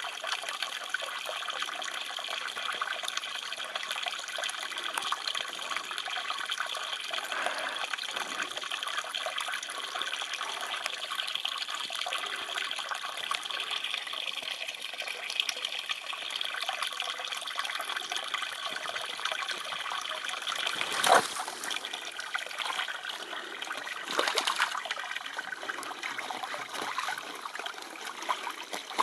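Shallow water trickling and running steadily, with two brief louder splashes about two-thirds of the way through and again a few seconds later.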